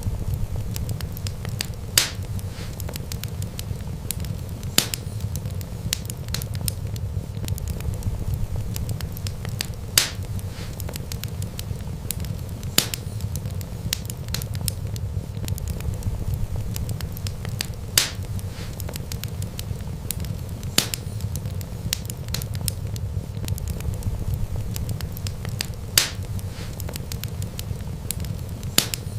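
Wood fire burning: a steady low rumble of flames with light crackling, broken by a sharp pop every few seconds.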